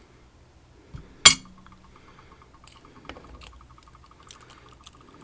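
Small brass lock pins dropped out of a padlock into a dish with one sharp clink about a second in, followed by a faint fluttering ring lasting several seconds as a piece keeps rolling, with a few light clicks of parts being moved.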